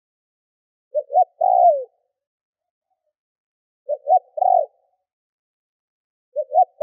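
Spotted dove cooing: three phrases about three seconds apart, each two short notes followed by a longer coo that falls in pitch; the last phrase is cut short.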